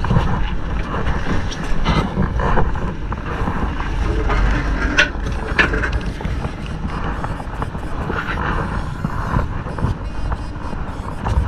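Wind rumbling on the microphone over the steady running noise of a fishing boat, with scattered small knocks and clicks.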